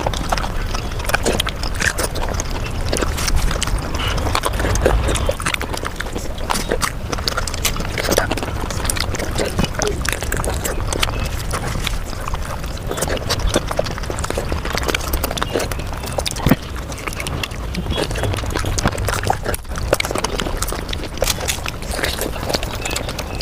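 Eating sounds sped up about fivefold: a dense, rapid patter of chewing and crunching mouth noises that never pauses.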